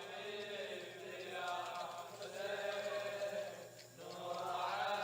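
Men's voices chanting a Shia Muharram mourning lament in long, rising and falling phrases, with a brief pause about three and a half seconds in.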